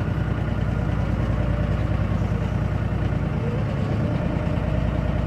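Tractor engine running steadily while it works to pull a tobacco trailer out of mud.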